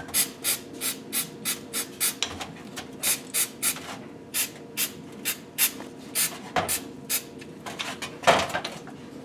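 Rhythmic scraping strokes, about three a second, as a piston's ring grooves are scrubbed clean by hand. The strokes thin out near the end, where one louder thump stands out.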